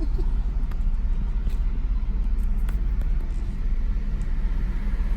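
2010 Ford Ranger pickup being driven, heard from inside the cab: a steady low rumble of engine and road noise.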